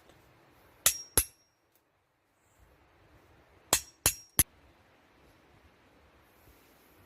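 Metal tool striking stone with sharp, ringing clinks: two strikes about a second in, then three more about three seconds later.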